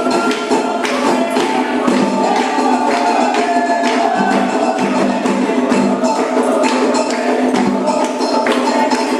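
Candomblé ritual music: dense, steady percussion of many quick rhythmic strikes, with some held pitched tones underneath.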